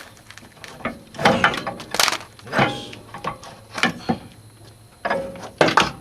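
Irregular knocks, clunks and scraping as a CV axle half shaft is pulled out of the car and handled, with several sharper metal knocks near the middle and end.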